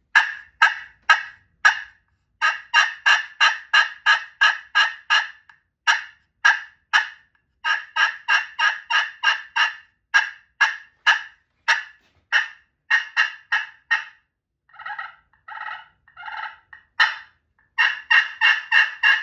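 Friction slate turkey call (green and purple slate over glass, in a burl-wood pot) played with a striker, in runs of short, evenly spaced yelping notes like a hen turkey. About 15 seconds in come a few softer, longer notes, then a last quick run near the end.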